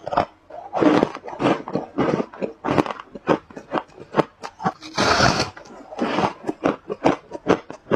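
A person biting and chewing ice close to the microphone: a rapid run of sharp crunches, with heavier bites about a second in and about five seconds in.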